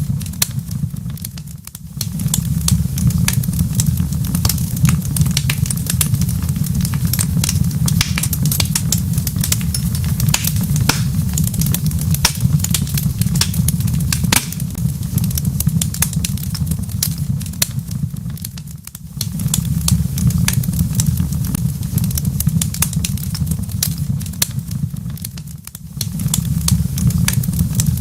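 Wood fire crackling in a fireplace: frequent sharp pops and snaps over a steady low rumble of burning. The rumble briefly drops away three times, about 2, 19 and 26 seconds in.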